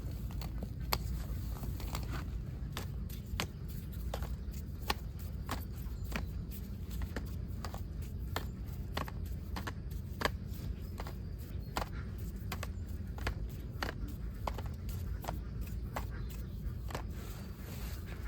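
Many light, sharp clicks and knocks at an irregular pace, about two or three a second, over a steady low rumble.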